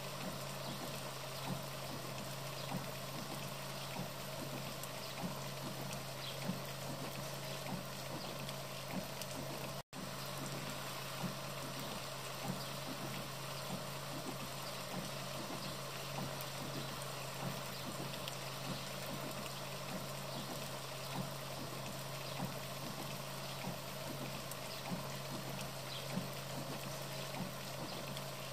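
Steady wet-weather water ambience, a continuous hiss with scattered small drip ticks, over a low steady hum. The sound cuts out briefly about ten seconds in.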